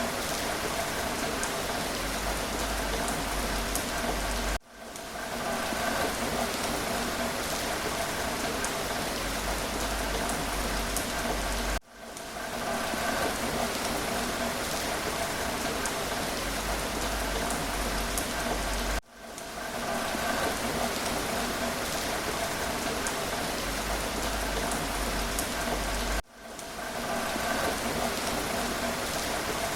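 Steady rain falling on a surface, with scattered drops. Four times, about every seven seconds, the sound cuts out for an instant and swells back in, where a looped recording restarts.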